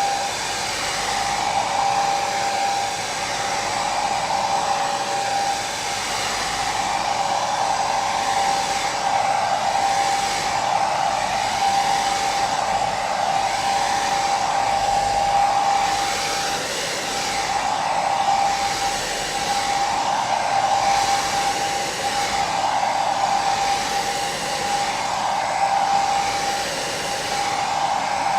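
Electric hair dryer running steadily as white noise: a rush of blown air over a steady motor whine, swelling and easing gently every couple of seconds.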